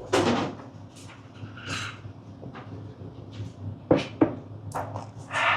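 Chewing and crunching a crisp snack, broken up by a few sharp clacks.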